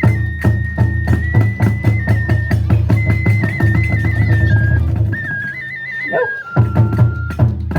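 Kagura music: a bamboo transverse flute plays a high, ornamented melody over a large drum beaten in fast, dense strokes, with sharp metallic strikes. The drumming stops for about a second, five to six seconds in, then resumes as slower, spaced beats under the flute.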